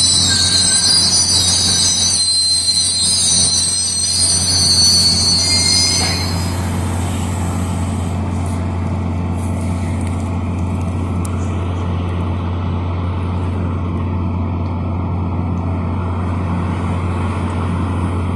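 MBTA train cars rolling slowly past with a high-pitched steel wheel squeal, which stops about six seconds in. After that a steady rolling rumble continues.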